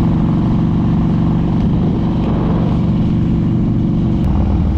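Harley-Davidson touring motorcycle's V-twin engine running at a steady cruising speed, its pitch unchanging, with wind and road noise over it.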